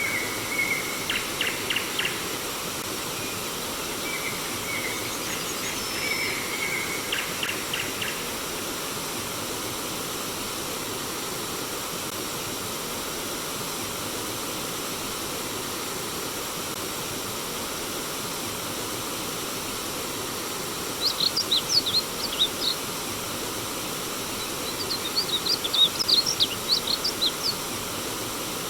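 Steady rush of flowing stream water with songbirds calling over it: short chirping phrases during the first eight seconds, then two bursts of rapid, higher chirps about 21 and 25 seconds in.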